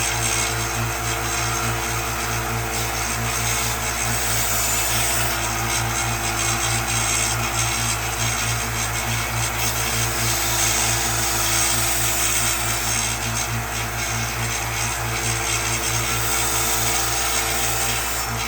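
An electric power tool running steadily against wood, with a constant motor hum under a rasping, abrading texture.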